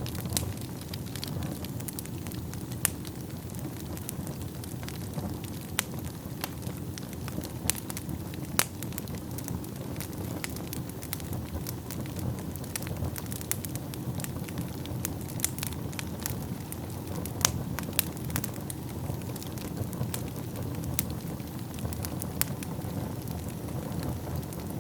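Wood fire burning in a fireplace: a steady low rumble and hiss of flames with frequent sharp crackles and pops at irregular intervals.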